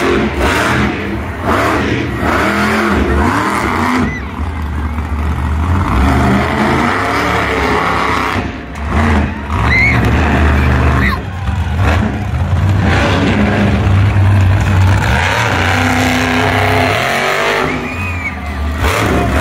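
Monster truck engine running hard, revving up and dropping back repeatedly in loud surges, with brief dips in level around a third of the way in and near the end.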